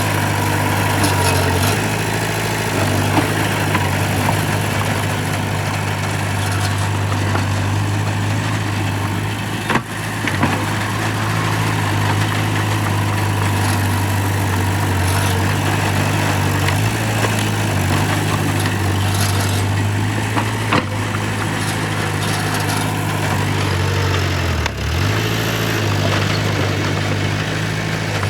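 Diesel engine of heavy earthmoving machinery running steadily at a low, even pitch, dipping briefly near the end as it takes load and then recovering.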